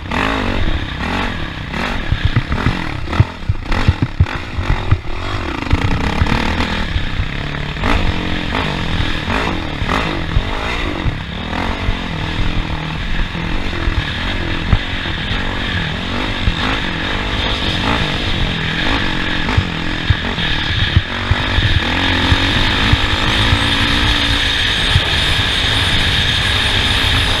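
Off-road race vehicle's engine running at speed, its pitch rising and falling with the throttle, with knocks and rattles from rough ground through roughly the first half.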